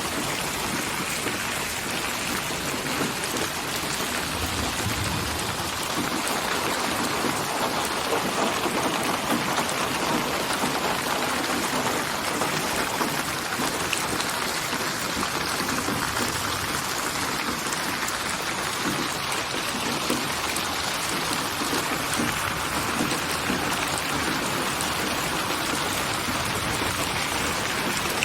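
Steady rain falling, a dense even patter of drops on surfaces with no break.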